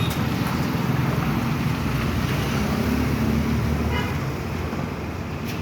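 A motor vehicle engine running steadily amid road traffic noise.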